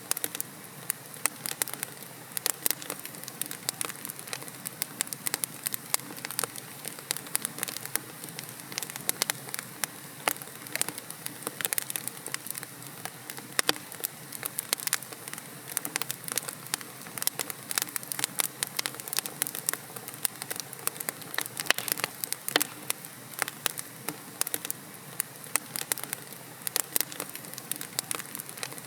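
Wood logs burning in a fireplace, with dense, irregular crackles and pops over a steady hiss of the fire.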